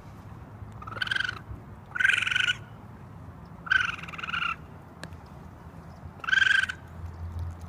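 Harsh cawing of a crow-family bird: four rasping caws of about half a second each, irregularly spaced, over a faint low hum.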